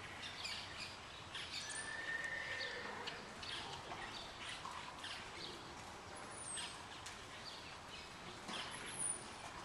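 Small birds chirping with short scattered calls over a faint steady background noise, with one drawn-out whistle about two seconds in.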